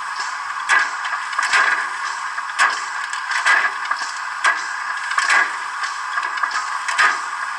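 Sound decoder of a Roco H0 model BR 01 steam locomotive playing slow, even steam chuffs, about one a second, over a steady hiss from the model's small loudspeaker.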